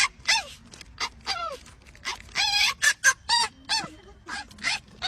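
A primate giving a rapid series of short, high-pitched calls, many sliding down in pitch, with a longer wavering call about halfway through.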